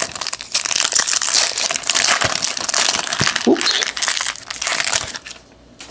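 Crinkling of a trading-card pack's wrapper as it is torn open and handled. It is dense crackling that stops shortly before the end.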